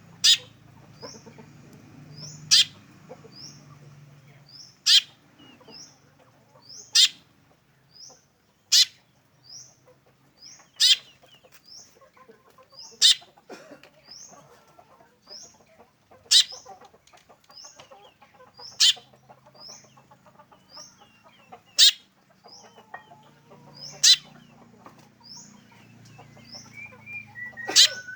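Black drongo calling: a loud, sharp note repeated about every two to three seconds, with short, high rising chirps in between.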